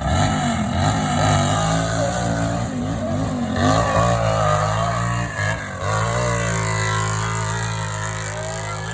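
Hill-climb motorcycle engine revving, its pitch rising and falling several times and holding steadier near the end. It sounds healthy.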